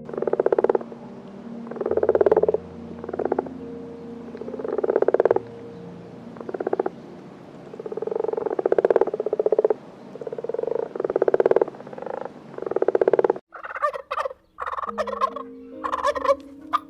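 Farm animal calls, each a rapid pulsing cry of about a second, repeated about nine times, over soft background music; a different set of quicker calls cuts in near the end.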